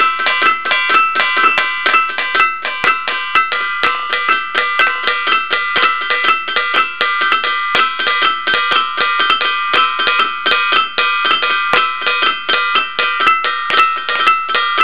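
Ringing stones (batu gong) struck rapidly in a steady rhythm, several strikes a second. Each strike gives a ringing, gong-like tone, and several pitches sound together between the strikes.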